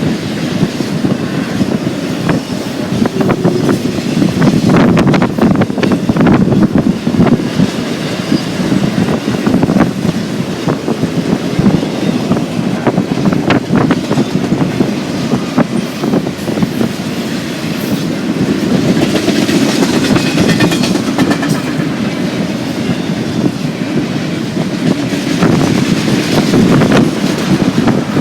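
Freight train's cars rolling past close by: a steady loud rumble of steel wheels on rail, with many sharp clicks as the wheels pass over rail joints.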